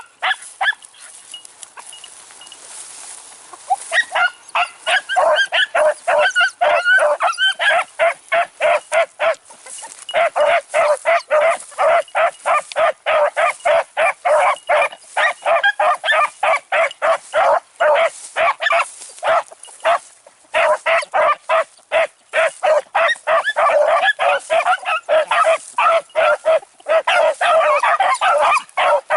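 A pack of beagles baying together in a rapid, overlapping chorus while running a rabbit on its scent. The bays start about four seconds in after a quiet opening, with a brief lull about two-thirds of the way through.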